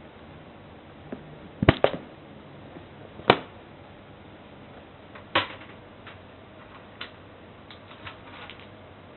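A few sharp knocks or clicks at irregular intervals: a quick double knock about two seconds in, the loudest a second and a half later, another about five seconds in, and fainter ticks near the end.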